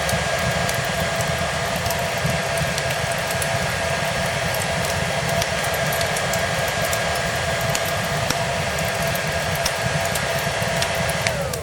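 Hair dryer running steadily with a constant motor whine over a blowing rush, mixed with the light crackle of a fireplace. Near the end the whine slides down in pitch as the dryer winds down.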